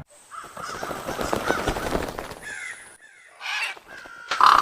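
A flock of crows: a rough rustling noise for the first couple of seconds, then harsh caws, three of them about a second apart, in the second half.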